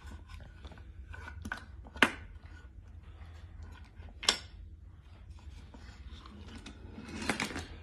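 Wooden toy train moving along wooden train track: light clicking and rubbing, with two sharp wooden clacks about two and four seconds in.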